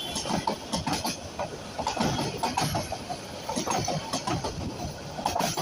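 A train running past on the track, its wheels clattering over the rails in a dense, irregular run of knocks.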